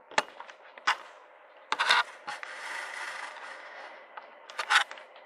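Inside a Tohoku Line electric train's driving cab while it runs: a handful of sharp, irregular clicks and knocks, with an even hiss lasting about two seconds in the middle.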